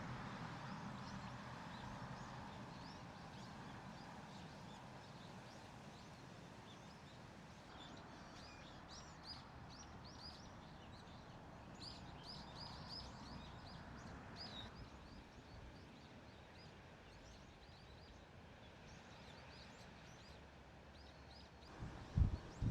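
Faint outdoor ambience with a low steady background noise, and small birds chirping in quick series of short high calls through the middle stretch.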